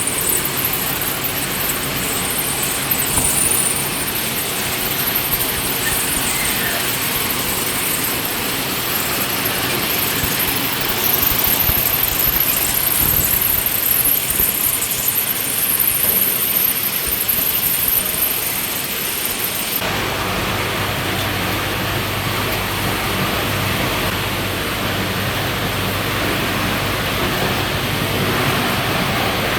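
Industrial machinery of an aluminium scrap recycling line running steadily, a continuous noise with a strong high hiss. About twenty seconds in the sound changes abruptly to a lower, humming mix with less hiss.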